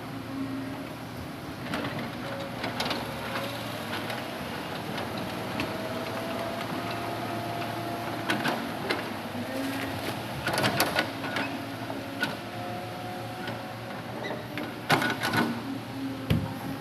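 Hitachi Zaxis 200 excavator's diesel engine running steadily, with a faint whine that shifts in pitch. Several sharp knocks come about halfway through and again near the end.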